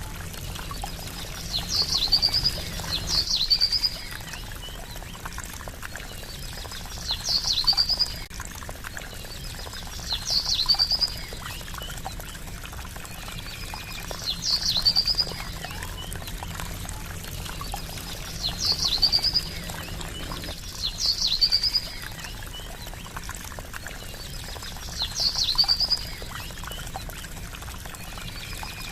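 Water trickling steadily, with a bird's short high call ending in a quick trill, repeating every three to four seconds.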